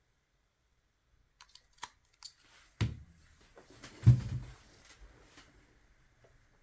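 Small clicks and knocks of objects being handled on a workbench, with two dull thumps about three and four seconds in, the second the loudest.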